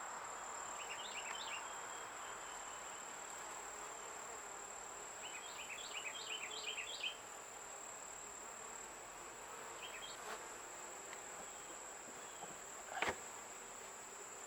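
Honeybees buzzing faintly and steadily around the hive, over a steady high whine. Short high chirps come in two brief clusters, and a single short knock sounds near the end.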